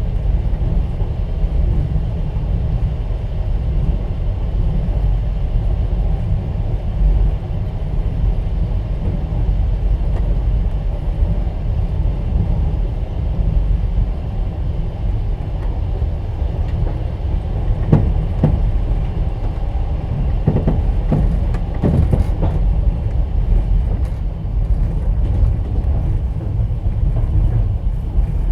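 Passenger train running, heard from inside a platskart sleeper carriage: a steady low rumble of the wheels on the track. A short cluster of sharp knocks comes about two-thirds of the way through.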